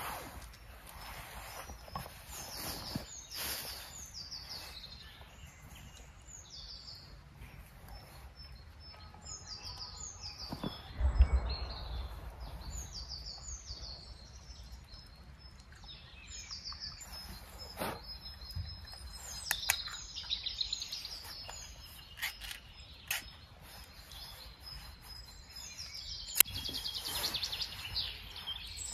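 Songbirds singing in woodland, short falling chirps repeated over and over. A dull thump comes about a third of the way in, and sharp clicks and knocks are scattered through the second half.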